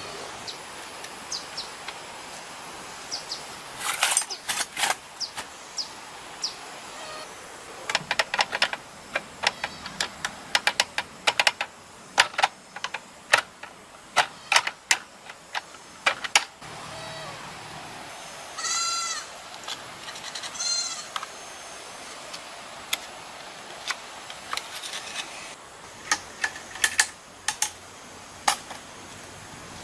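Scattered sharp clicks and knocks, irregular and sometimes in quick clusters, with two short, wavering animal bleats a little past the middle.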